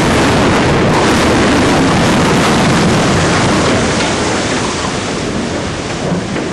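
Loud, continuous rumbling roar from the explosive demolition of a bridge, the blast and collapse just after the charges fire, easing slowly from about four seconds in, with a short crack near the end.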